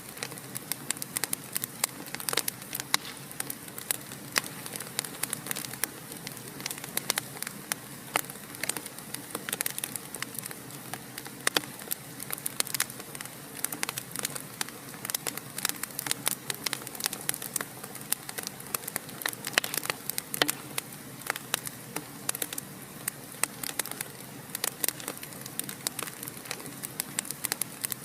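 Wood fire in a fireplace crackling: a dense, irregular run of sharp pops and snaps over a steady soft hiss.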